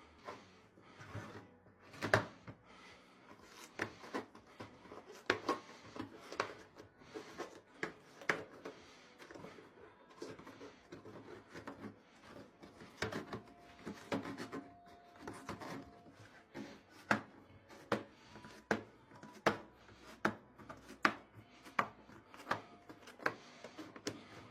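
Hand assembly work on a washing machine: a string of irregular sharp clicks and knocks, about one or two a second, with rubbing and scraping between them as parts are handled and fitted.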